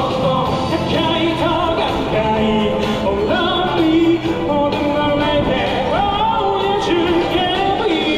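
Live busking performance: a singer sings a sustained ballad melody with vibrato over amplified accompaniment.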